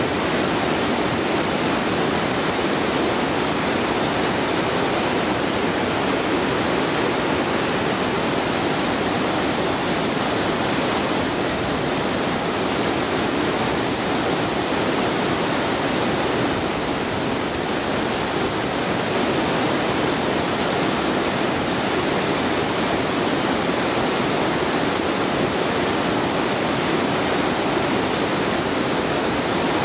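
Waterfall: a loud, steady rush of falling, splashing water.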